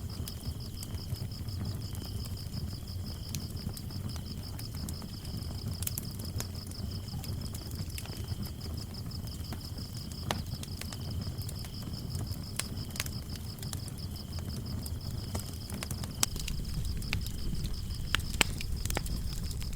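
Wood fire crackling with scattered sharp pops over a low rumble, while crickets chirp. One cricket keeps up a steady fast high trill; a lower one chirps in short on-off bursts. A few louder pops come near the end.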